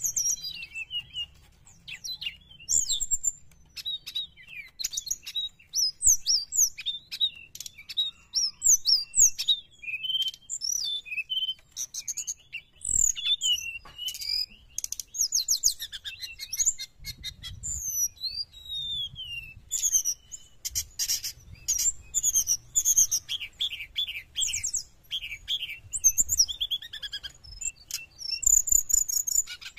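Brown-chested jungle flycatcher singing vigorously: a fast, unbroken run of varied high chirps, trills and short whistled glides.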